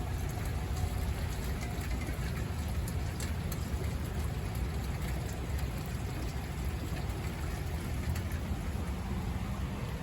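Steady rainfall, with scattered drops ticking and a steady low rumble underneath.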